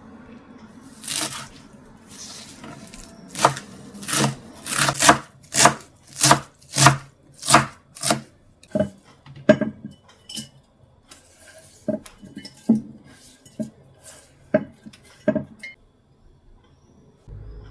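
Knife chopping on a cutting board: a run of strong, even strokes about every 0.6 seconds, then lighter, more widely spaced cuts that stop near the end.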